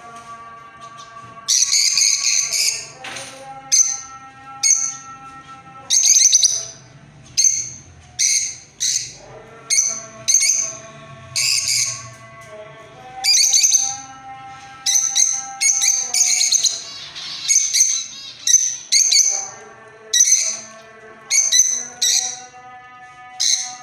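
A bird calling in loud, short, high-pitched bursts, roughly one a second, over steady held musical tones.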